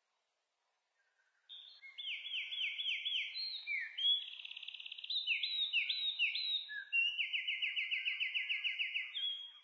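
A songbird singing in varied phrases of repeated down-slurred notes and fast trills, starting about a second and a half in.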